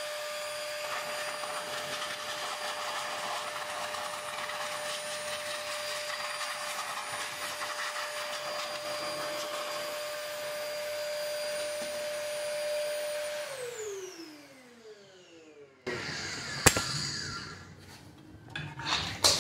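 Old vacuum cleaner, rigged to blow air out through its hose, running steadily with a constant whine. About thirteen seconds in it is switched off and the motor winds down with a falling whine. A sharp knock and some light clattering follow.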